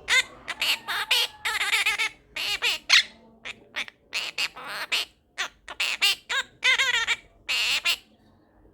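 Quaker parrot (monk parakeet) making a rapid series of short squawks and warbling chirps, stopping about a second before the end.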